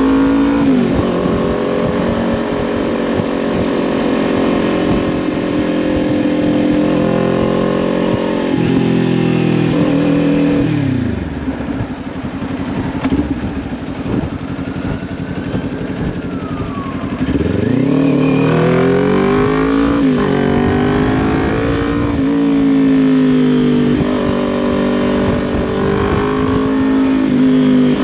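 Kawasaki Ninja 400's parallel-twin engine through a Leo Vince LV10 slip-on exhaust, heard while riding: revs held steady, then falling away about a third of the way in to a quieter, low-revving stretch, then climbing again through gear changes to steady cruising.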